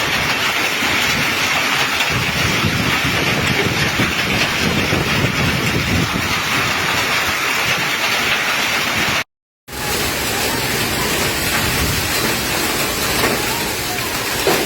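Heavy rain pouring down in a storm, a steady loud rush of noise. It cuts out abruptly for under half a second about nine seconds in, then resumes.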